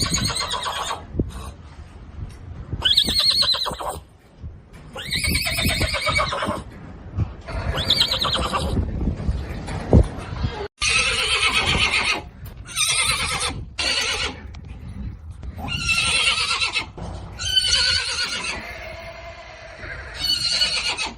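Horses whinnying: a string of about ten loud neighs, each a second or so long, with short gaps between them.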